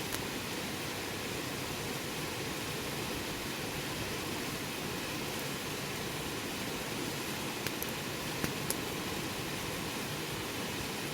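Wood campfire burning with a steady hiss, and a few sharp crackles from the wood: one right at the start and three close together about eight seconds in.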